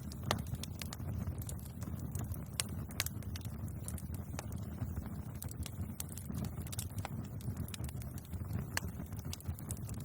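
Wood fire burning: a steady low rumble of flames with irregular sharp crackles and pops, the loudest about a third of a second in and a few around three seconds in.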